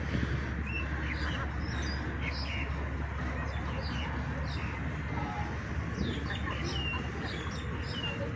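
Small birds chirping: many short, quick calls, some sliding down in pitch, over a steady low rumble of outdoor background noise.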